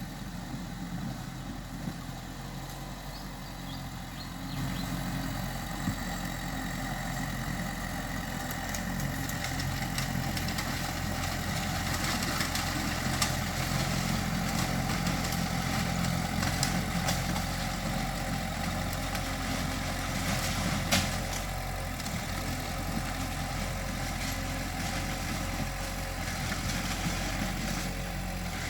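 Small Mitsubishi bulldozer's diesel engine running steadily, growing louder about four and a half seconds in as it works, with a few sharp metallic clanks, the loudest about twenty seconds in.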